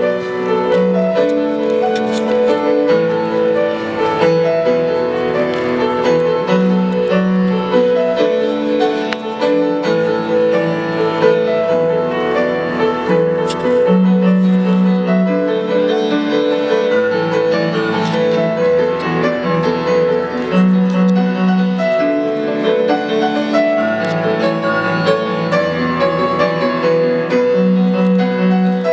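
Solo piano playing held chords over a low bass note that changes about every two seconds.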